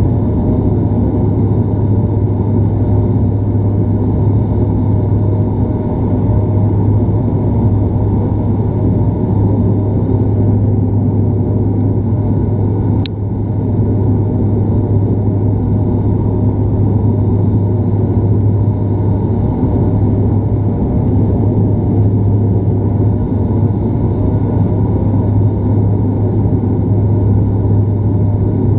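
Steady drone of a Bombardier Dash 8 Q400's turboprop engines and propellers heard from inside the cabin, with a strong low propeller hum. A single brief click about thirteen seconds in.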